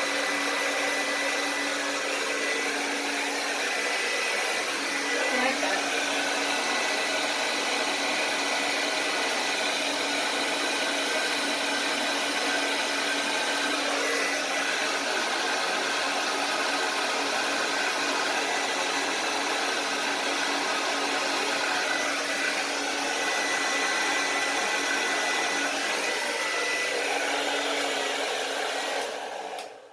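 Hair dryer running steadily, a constant rushing hum with a faint steady whine, switching off abruptly near the end.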